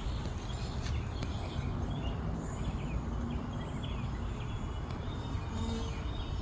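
Outdoor ambience at an open beehive: small birds chirping over a steady low rumble, with brief buzzes of honeybees flying close by.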